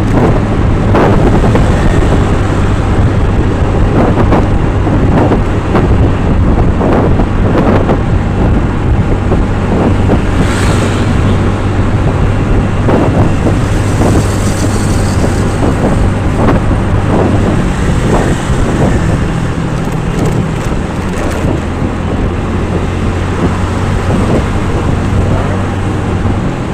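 Motor vehicle engine running on the road, a steady low hum that settles slightly lower a little past halfway, with wind buffeting the microphone.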